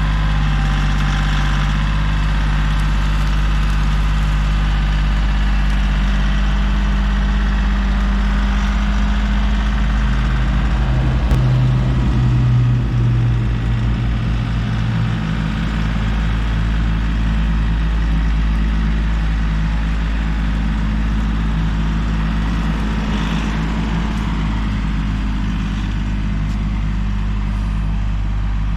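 Diesel engine of a Kioti CK3510 compact tractor running steadily, its note shifting and briefly getting louder about eleven seconds in.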